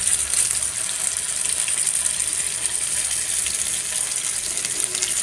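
Marinated chicken strip frying in hot ghee in a non-stick pan: a steady sizzle with fine crackles.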